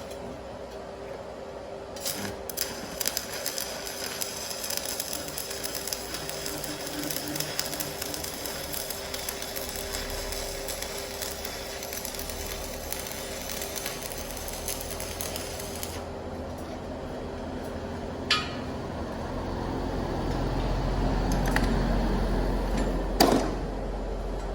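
TIG welding arc on a pulse-TIG inverter welder, crackling and buzzing steadily for about fourteen seconds from about two seconds in, then cut off abruptly. Afterwards come a low rumble and two sharp clicks.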